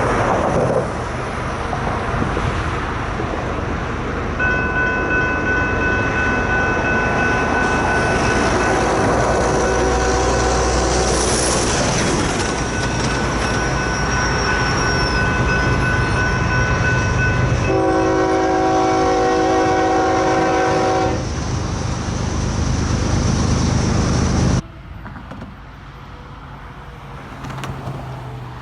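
Freight train passing with its locomotive's air horn sounding: a long multi-note chord over the train's rumble, changing to a lower chord near 18 seconds. The sound cuts off abruptly near 25 seconds, leaving quieter traffic noise.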